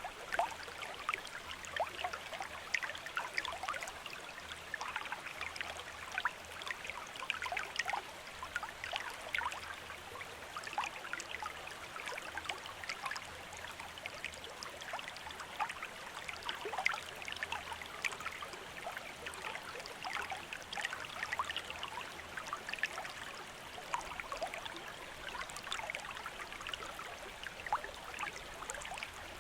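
Shallow river or stream running over rocks: a steady babble of water, flecked all through with small splashes and gurgles.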